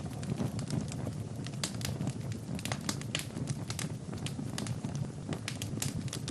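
Wood fire burning in a fireplace: irregular sharp crackles and pops several times a second over a steady low rumble of the flames.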